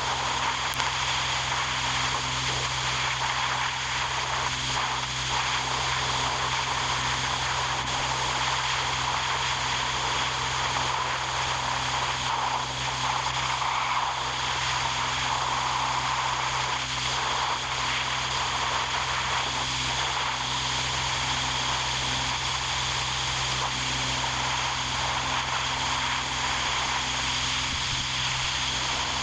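A steady machine drone that holds at an even level throughout, a constant low hum under a hiss.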